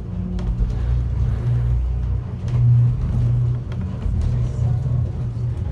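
Automated airport subway train's electric drive humming and rumbling as it pulls away from a station, a low droning hum whose pitch bands shift as it gets under way.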